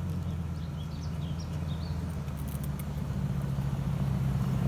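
2005 Ford F-250 Super Duty's V8 engine running steadily, a low even hum that grows louder near the end.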